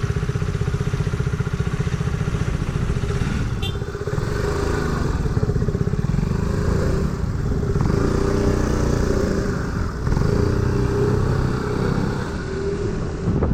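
Scooter engine running under way while riding, steady, with its pitch shifting up and down in the middle part as the revs change.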